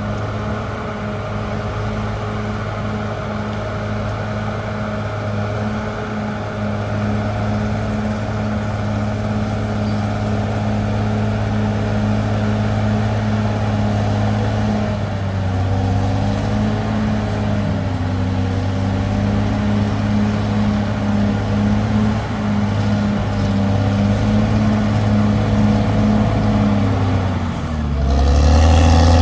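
Caterpillar D6R XL bulldozer's diesel engine running steadily under work. Its pitch wavers with the load in the second half, and near the end it dips, then revs up louder.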